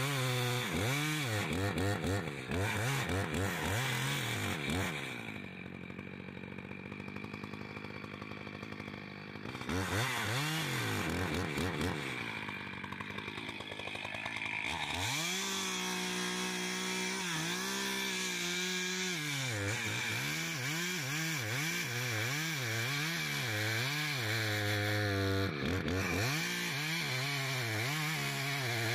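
Chainsaw cutting into an oak, its engine revving up and falling back again and again as the chain works through the wood. It settles to a lower, steadier run for a few seconds about a fifth of the way in, then revs hard and varies quickly again through the second half.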